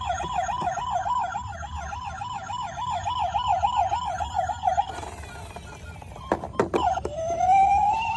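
Toy vehicle's electronic siren warbling fast, about four cycles a second, cutting off about five seconds in. A few sharp clicks follow, then a slower wailing siren rises and begins to fall near the end.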